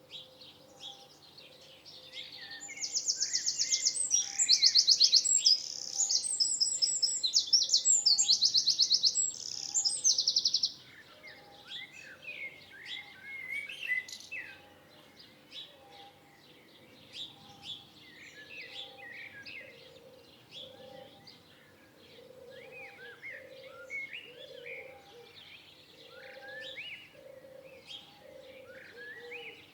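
Wild birds singing: one loud, rapid trilled song from about three seconds in until about ten seconds in, then many shorter chirps and whistles from several birds, with a faint low note repeating about once a second underneath.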